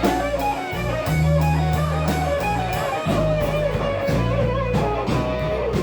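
Blues band music: an electric guitar playing a melodic line with sliding, bent notes over held bass notes and a steady drum beat.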